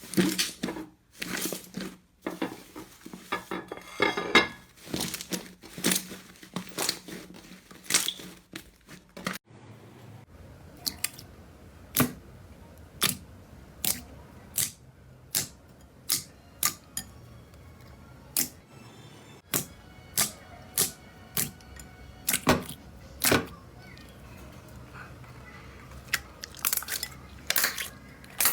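Slime being squeezed and pressed, making crackling and squelching sounds. After a cut about nine seconds in, it gives sharp single pops about once a second.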